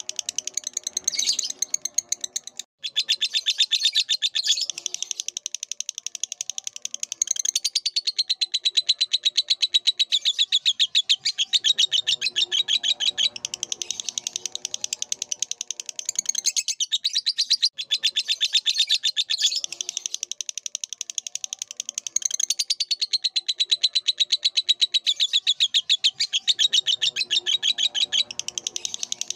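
Lovebird singing a long, continuous chattering song of rapid, high-pitched notes, with brief breaks about three seconds in and again past the middle.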